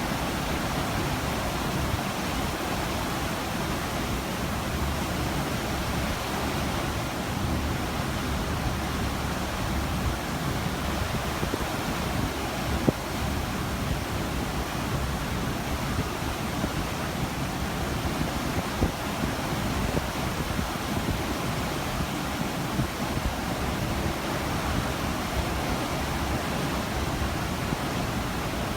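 Steady rush of open-ocean water and wind heard from a moving cruise ship, an even unbroken hiss of sea. A brief tap sounds about halfway through.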